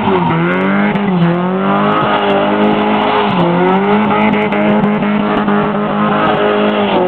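Toyota Sprinter Trueno's four-cylinder engine held high in the revs while drifting, the pitch dipping briefly and climbing back several times as the throttle is worked, with tyre squeal under it.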